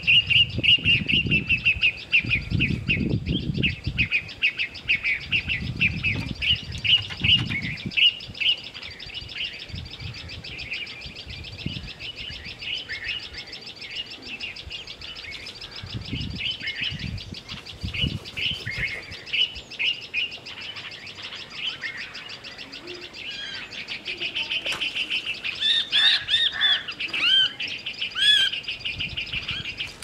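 Small birds chirping in rapid, continuous runs of high notes, with louder, clearer calls near the end. Low rumbles come and go in the first several seconds.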